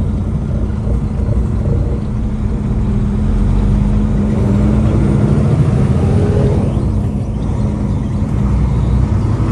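Semi-truck's diesel engine running steadily while driving, a continuous low drone with road rumble; a few tones rise in pitch about six to seven seconds in.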